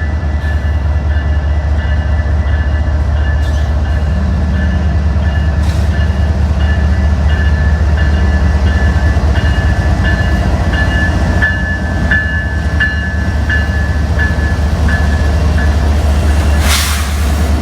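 Metra diesel locomotive and its train running with a heavy steady rumble, while a bell rings in an even rhythm of about one and a half strikes a second. A short sharp hiss comes near the end.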